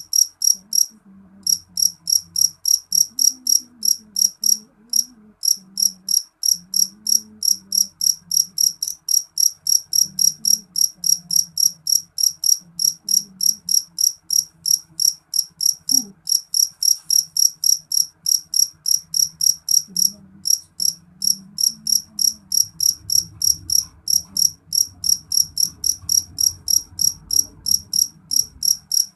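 Jangkrik jeliteng (black field cricket) chirping loudly and shrilly. Short, high chirps repeat steadily at about three a second, with brief pauses about a second in and near five seconds.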